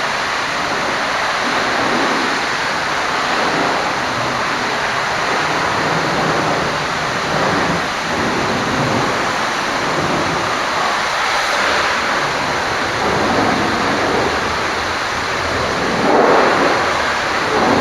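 High-pressure water spray blasting against a truck's bodywork at a truck wash: a steady rushing hiss of water, swelling briefly near the end.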